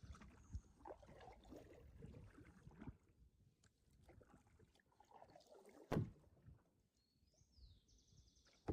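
Very quiet outdoor scene with faint rustling and handling noises and a single sharp knock about six seconds in. Near the end there is a short high bird call with a quick trill.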